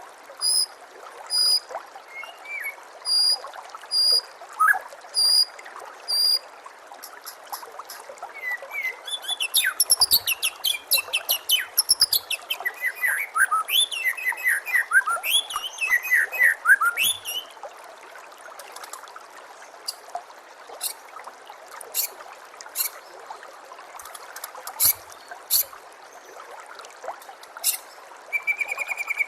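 White-rumped shama (murai batu) song over a steady trickle of running water. It opens with a run of about seven short, evenly spaced high notes. A burst of quick falling chirps and whistles fills the middle, and scattered sharp ticks follow.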